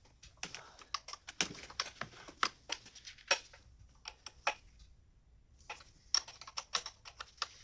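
Irregular sharp metallic clicks and clinks of a wrench working the injector fittings on a BMW M57 diesel engine as they are tightened snug by hand, with a short pause about five seconds in.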